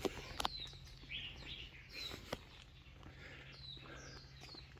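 Birds chirping: short, high, falling notes repeated every second or so, faint. A few sharp clicks near the start and about two seconds in.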